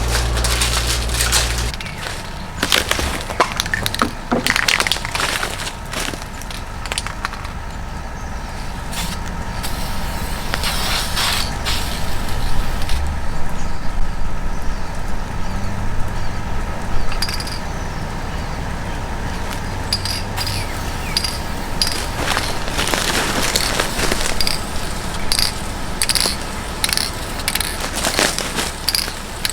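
Hand tools working wood: irregular scrapes, knocks and clicks, turning into a run of evenly spaced clicks in the last few seconds.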